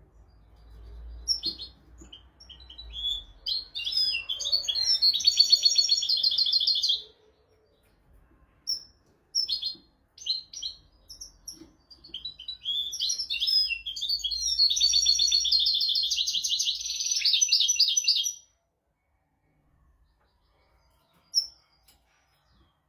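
European goldfinch singing: two long twittering song phrases, each ending in a rapid trill, with a few single chirps between them and near the end.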